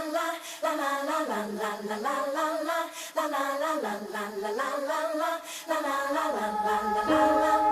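Background music: a wordless a cappella vocal line sung in short repeated phrases, with held keyboard notes coming in near the end.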